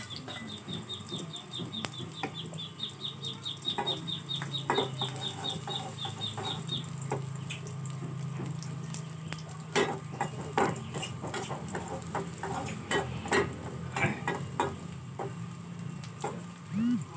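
Chopped shallots, garlic, turmeric, ginger and galangal sizzling and crackling in hot oil in a small wok, with the clink and scrape of a metal ladle stirring. A fast, even series of high chirps, about four a second, runs through the first seven seconds or so.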